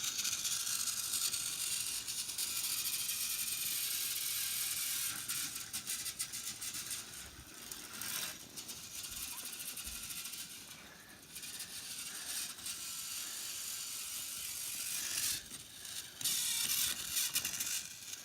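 Battery-powered toy train running along its track: the small motor and gears whir with a fast, rattling clicking. The whir dips briefly partway through and breaks up near the end.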